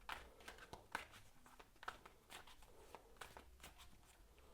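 Tarot cards being handled and laid out: faint, irregular flicks, taps and rustles of card on card and on the table.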